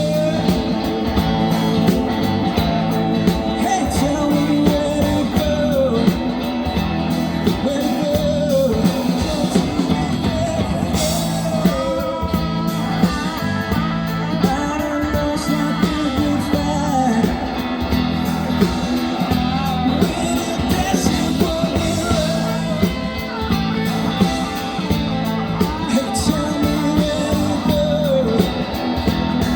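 A rock band playing live, with a singer and electric guitar over bass and drums.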